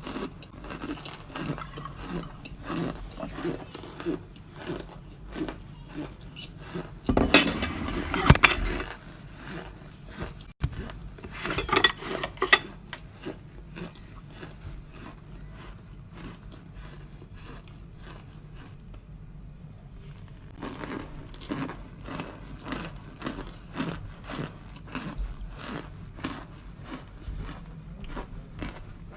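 Crunching of cornstarch chunks (boiled, then baked) being bitten and chewed, a run of short crunches about two a second. There are two louder, noisier stretches about a quarter of the way in and again shortly after, then a quieter spell before the crunching picks up again.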